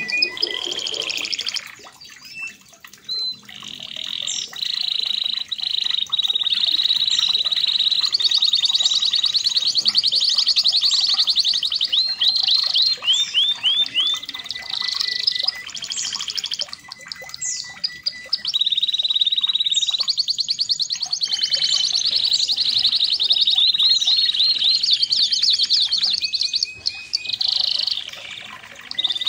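Red canary singing a long, continuous song of fast, high trills and rolls, with short pauses between phrases.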